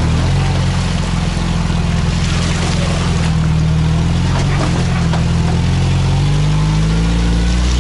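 Car engine running steadily under load as it drives, with a constant rushing noise of tyres on a rough, wet track over it.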